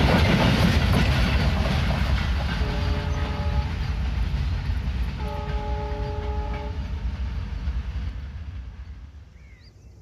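Freight train of covered wagons rumbling over the rails and fading away as its last wagons and brake van pass and it recedes. A train horn sounds twice, a blast of about a second roughly two and a half seconds in and a longer one about five seconds in.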